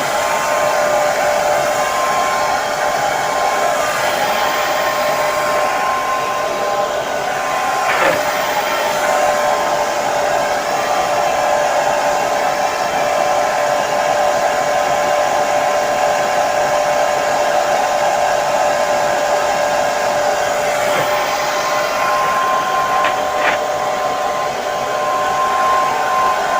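Hair dryer (phon) running steadily: an even rushing hiss with a steady whine underneath.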